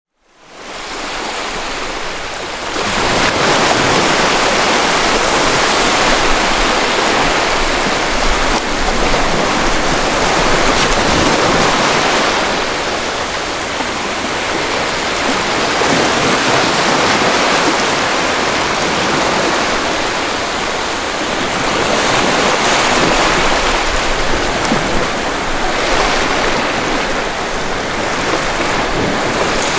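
Sea waves breaking and washing on the shore as a steady rushing surf, fading in over the first few seconds and then swelling and easing gently.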